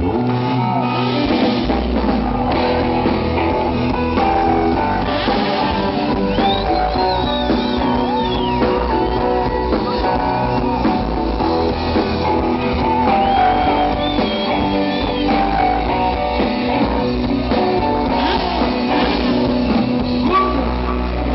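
Live rock band playing an instrumental introduction: electric guitars with bass and drum kit, a lead guitar line bending high over the chords.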